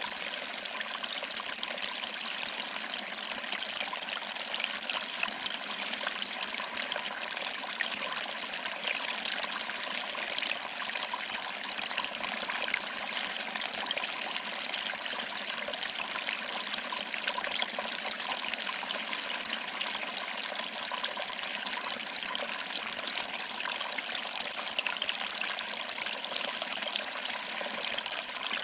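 Small waterfall trickling over rocks and splashing into a pool, a steady, even rush of water.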